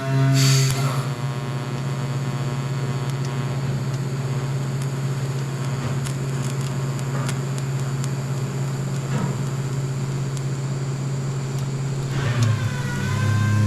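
TIG welder arc running steadily as stainless exhaust tubing is tack-welded, an even electrical hum and hiss, with a short crackle reaching high pitches as the arc strikes about half a second in.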